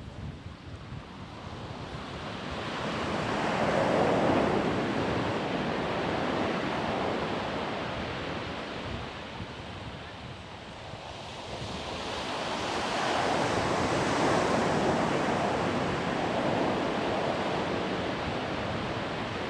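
Ocean surf on a sandy beach: one wave swells and breaks, peaking about four seconds in, washes back and ebbs, then a second swells and breaks around thirteen to fifteen seconds in. Wind rumbles on the microphone throughout.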